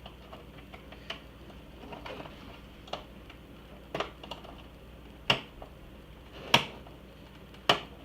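Flathead screwdriver prying at an iMac G3's plastic casing: a series of sharp plastic clicks and knocks, about one a second, with faint scraping between them and the loudest clicks in the second half.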